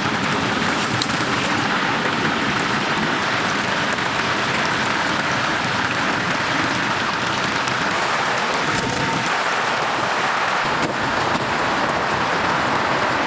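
Chicken deep-frying in hot oil: a steady sizzle with many small crackles.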